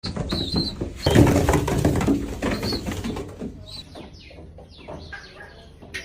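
Pigeons flapping their wings in a burst about a second in, with short high chirping calls before and after, including a quick run of falling chirps past the middle.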